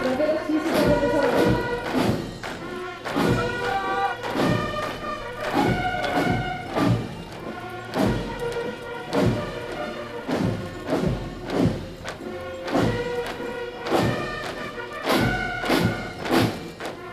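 Military band playing a march: sustained melody over a steady, regular bass drum beat.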